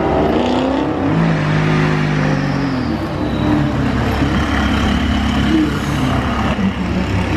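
Sports car engine being driven hard on a track: the revs climb in the first second, hold, then drop away about three seconds in, followed by a rougher, uneven engine sound.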